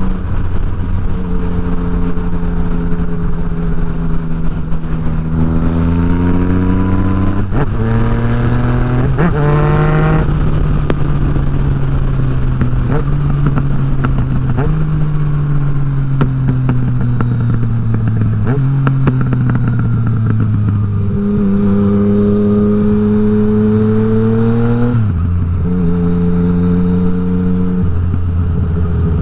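Yamaha MT-09's three-cylinder engine through an Akrapovič exhaust with no dB killer, revving while ridden. The pitch climbs, drops sharply at gear changes, and falls away with short upward jumps as it slows.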